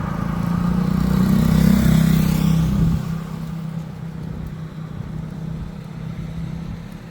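A motor vehicle passing close by: its engine hum swells to its loudest about two seconds in, with a falling whine, then drops off about three seconds in. A fainter steady hum continues behind it.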